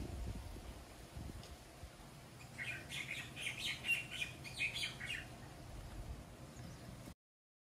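Small birds chirping: a quick run of short, high chirps starts about two and a half seconds in and lasts a couple of seconds, over a faint low rumble. The sound cuts off suddenly near the end.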